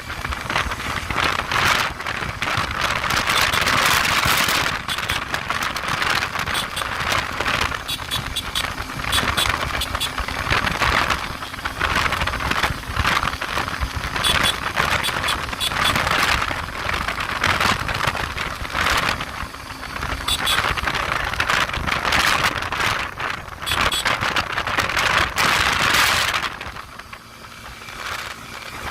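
Motorcycle on the move, engine running under wind noise that surges and fades, with a brief drop in level near the end.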